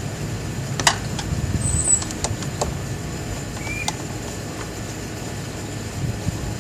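A few scattered clicks and small knocks from a hand tool tightening the screws of a plastic air filter housing, over a steady low background rumble.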